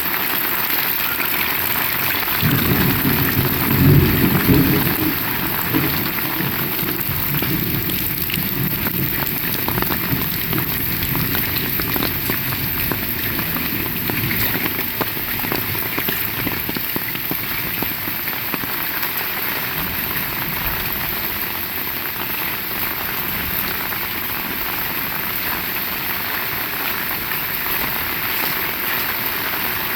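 Heavy rain falling steadily. About two and a half seconds in, a low rumble of thunder swells, peaks, then fades away over the next few seconds.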